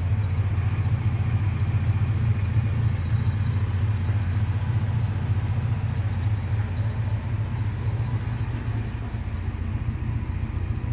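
1958 Sunbeam Rapier's four-cylinder engine idling steadily.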